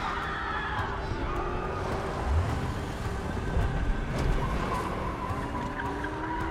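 Car engine running in a moving vehicle that jolts over rough ground, with heavy thumps about two and four seconds in.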